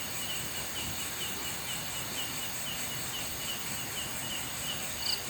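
Night insects calling: a steady hiss with a short high chirp repeating about twice a second, and now and then a higher double chirp.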